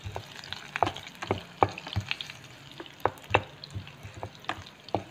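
Plastic spatula stirring garlic and onions frying in hot oil in a small pan: irregular clicks and scrapes against the pan over a light sizzle.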